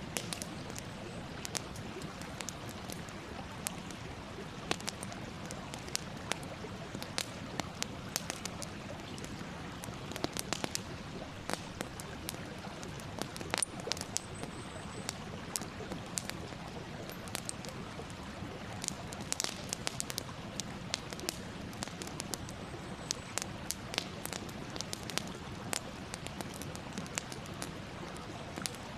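Campfire burning: a steady hiss with frequent irregular crackles and sharp pops, and a faint thin high whistle twice.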